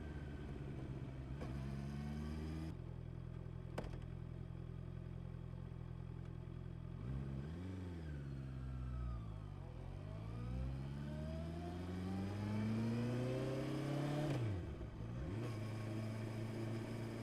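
Honda CB650R's inline-four engine running steadily, then briefly revving up and back down about halfway through. It then climbs steadily in pitch for about five seconds as it accelerates, drops sharply near the end, and settles back to a steady note.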